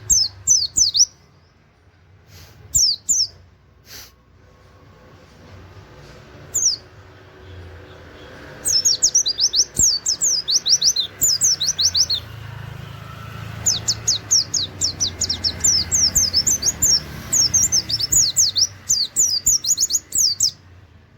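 White-eye (pleci) singing rapid 'wit wit' notes, high and quickly falling, several a second. A few short bursts come in the first seconds, then two long rattling runs start about nine and fourteen seconds in: the fast 'nembak' delivery that keepers use as tutor song.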